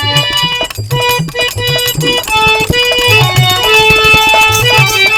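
Instrumental interlude of a Bhojpuri birha folk song: a melody of held notes on a reedy keyboard-type instrument over a steady drum beat.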